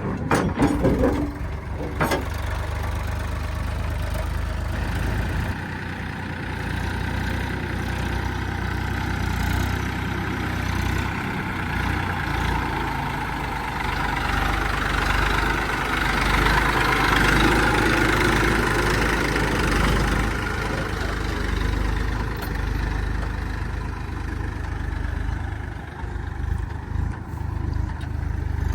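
Heavy diesel engine of a backhoe loader or tractor running continuously, working harder and louder around the middle before easing back. There are a few knocks near the start.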